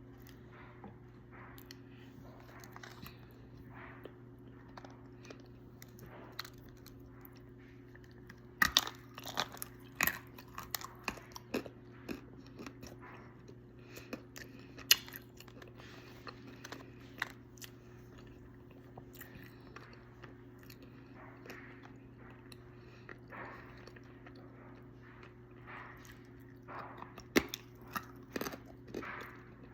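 Dry calaba clay being bitten and chewed: clusters of sharp crunches about nine seconds in and again near the end, with softer chewing between, over a steady low hum.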